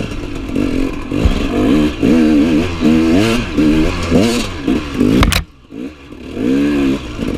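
Enduro motorcycle engine revving up and down again and again while being ridden off-road. A sharp knock comes a little past five seconds in, followed by a brief drop in engine sound before it revs up again.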